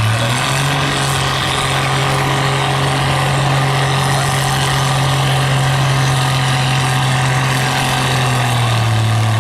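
A 7,000-pound stock pulling tractor's engine held at full throttle under heavy load as it drags the weight-transfer sled; the engine note is steady, rising a little about half a second in and falling back near the end as the pull ends.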